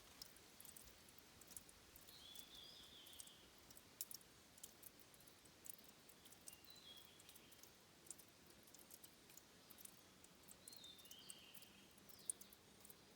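Faint forest ambience at a stream's headwater spring: many small scattered ticks of dripping water, with a short high chirping call about three times, near 2.5, 7 and 11 seconds.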